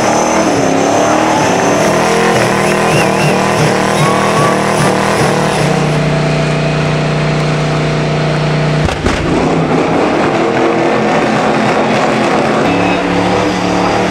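Old-school American V8 engine revving hard during a rolling burnout. The revs are held steady for a few seconds in the middle, then there is a sudden click about nine seconds in and the engine carries on.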